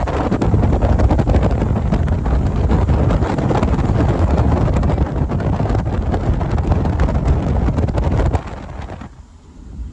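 1993 Mazda Miata's four-cylinder engine running under heavy wind buffeting on the microphone, a loud dense rumble that drops off sharply near the end.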